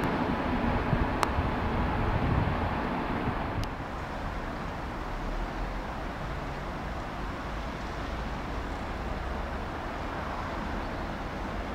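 A train running at a railway station, with a steady hum that fades about three and a half seconds in, leaving an even low rumble. Two sharp clicks, about a second and two and a half seconds apart.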